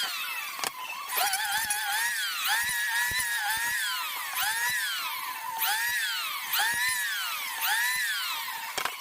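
A small electric motor's whine rising quickly and sinking slowly, about once a second, like a power tool spun up and let coast down over and over.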